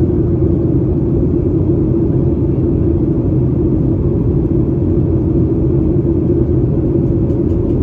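Steady low rumble inside a Boeing 737-800's cabin in flight: its CFM56-7B engines and the rush of air over the fuselage.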